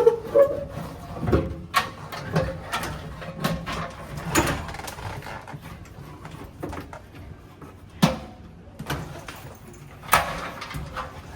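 HVAC blower wheel and motor assembly being worked out of the unit's housing: irregular knocks, clunks and scraping as it is pulled and shifted.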